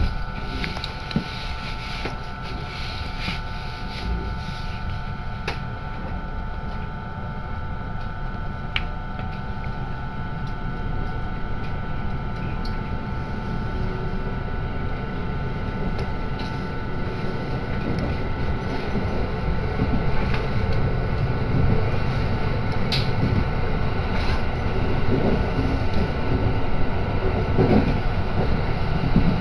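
Cabin of a JR Sanyō Line electric train pulling away and picking up speed: a steady running rumble that grows slowly louder, with a steady whine and a few faint knocks.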